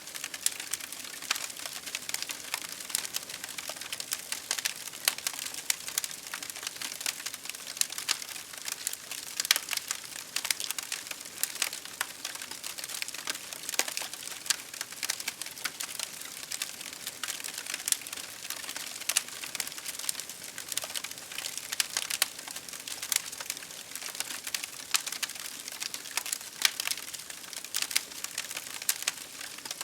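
Campfire crackling with many sharp, irregular pops over a steady hiss of rain.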